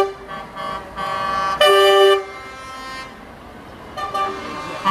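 Horns of lorries in a passing convoy sounding in several blasts: one ending just after the start, two back to back about a second in with the second the loudest, and a fainter toot near the end.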